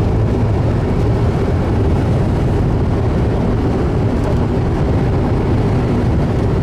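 Strong wind blowing in a steady, loud, low rumble.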